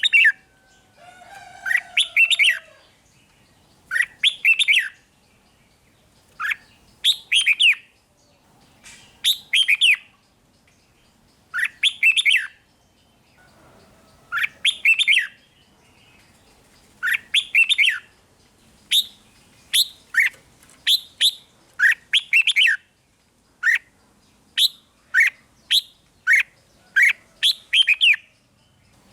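Red-whiskered bulbul singing short, loud whistled phrases, repeated every couple of seconds at first and about once a second in the second half.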